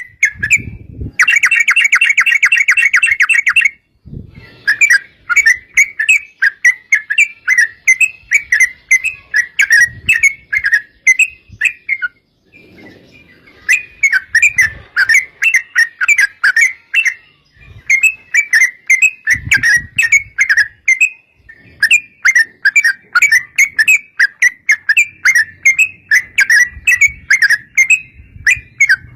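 Yellow-vented bulbul (trucuk) singing long, loud chattering phrases of quick bubbly notes, with short breaks between phrases and a few low thumps underneath.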